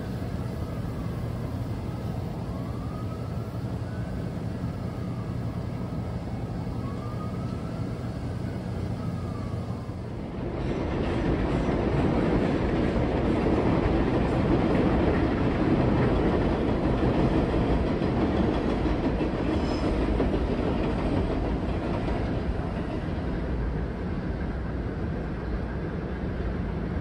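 Commuter train running on the rails: a steady rumble with faint rising-and-falling whines, then about ten seconds in a louder rumble and rail noise sets in suddenly and holds.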